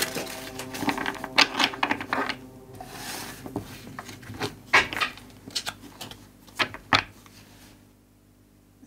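Tarot cards being shuffled and handled: an irregular run of card snaps and flicks with a few sharper taps, dying away to near quiet just before the end.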